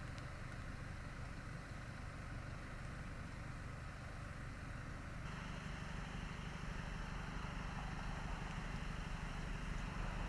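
Car engine running with a steady low hum; its tone shifts and grows a little fuller about five seconds in.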